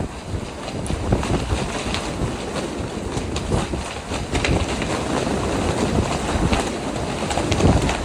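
Strong gusting wind buffeting the microphone, with frequent short, sharp flapping snaps mixed in.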